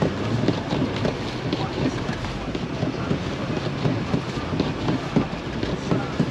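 Road noise of a car driving on a snow-covered road: a steady rumble with many small irregular knocks and crackles.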